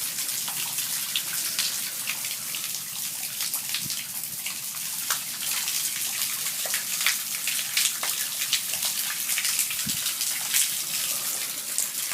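Heavy rain pouring down: a steady hiss full of close drops and splashes.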